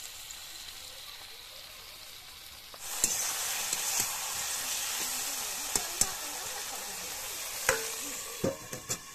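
Tomatoes and onions frying in a hot iron wok: a faint sizzle that turns louder about three seconds in as a metal spatula stirs, knocking against the wok several times. Near the end a steel lid clinks onto the wok.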